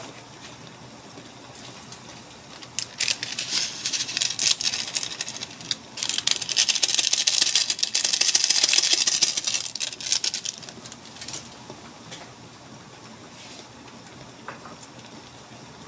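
Asado sauce sizzling in a pan while being stirred, with a spoon clattering against the pan. The sizzle and clatter swell about three seconds in, are loudest in the middle, and die down near the end, as the sauce cooks down and thickens.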